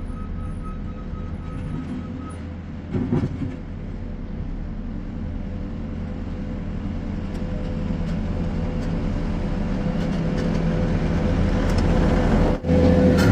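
New Holland C232 skid steer's diesel engine running steadily, growing louder over the second half, with a brief clatter about three seconds in and a momentary dropout just before the end.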